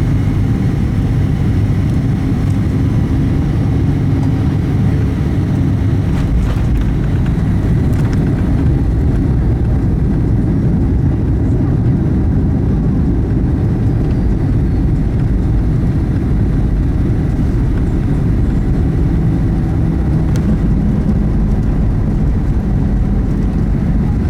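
Cabin noise of a Boeing 737-800 with CFM56-7B engines: a steady low rumble of engines and airflow. The deepest part of the rumble grows stronger about six seconds in, with a few faint clicks around then.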